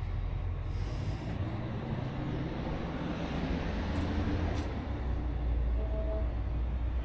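Pressure washer running: a steady engine rumble under the hiss of high-pressure water spraying on concrete.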